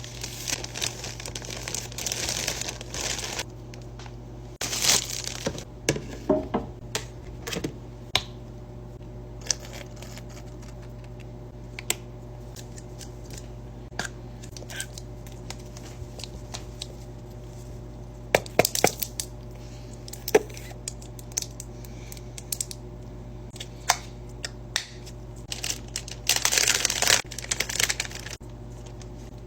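Snack packaging crinkling and tearing in bursts near the start and again near the end, with scattered sharp clicks and crunches in between, over a steady low hum.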